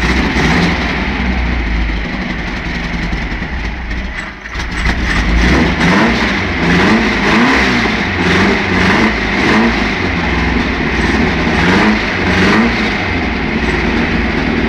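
A new engine idling, then revved again and again from about five seconds in, its pitch rising and falling in a run of quick blips.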